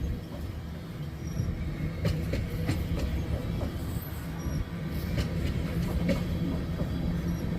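Freight train of tank cars rolling past: a steady rumble of steel wheels on rail, with scattered clicks of wheels over rail joints and a few faint, brief high wheel squeals.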